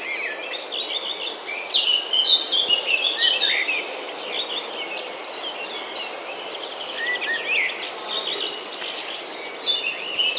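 Many birds chirping and calling in quick, overlapping phrases, over a steady high insect buzz.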